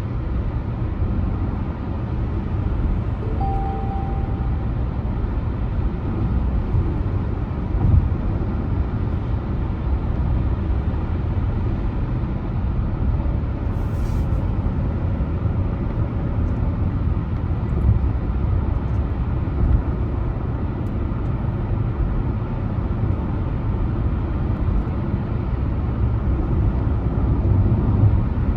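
Car on the move: a steady low rumble of road and engine noise, with a short faint tone about three seconds in and a brief click near the middle.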